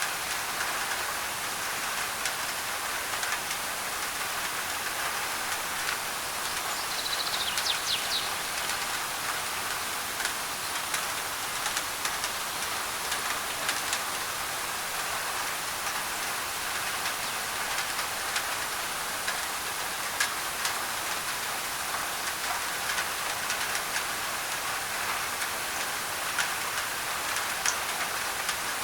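Steady heavy rain on a thin tin roof, with many sharp drop taps over an even hiss of white noise. A brief high chirp comes about seven seconds in.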